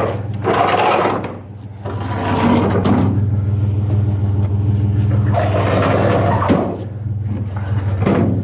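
Vehicle engine idling steadily, with long stretches of scraping, shuffling noise over it as a heavy old fridge is shifted and stood upright.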